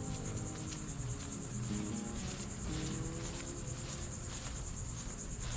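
Honeybees of a swarm buzzing around a hive box as a faint, shifting low hum, under a steady high-pitched insect trill that pulses slightly.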